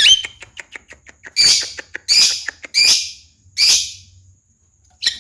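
Javan myna calling: a short whistled note and a quick run of clicks, then four harsh rasping calls about 0.7 seconds apart.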